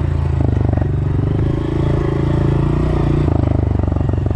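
An engine idling steadily with a fast, even pulse and a deep low hum.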